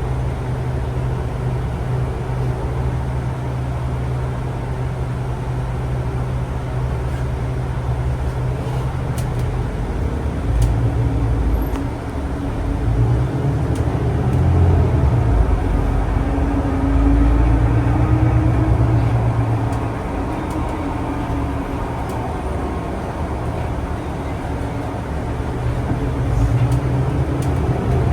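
Ride inside a moving public-transport vehicle: a steady low rumble and hum, with the drive's pitch rising and falling as it speeds up and slows again around the middle, and a few faint clicks.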